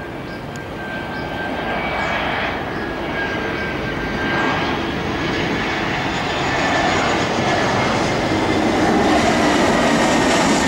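Jet airliner on landing approach, its engines whining over a loud rushing noise that grows steadily louder as it comes in low.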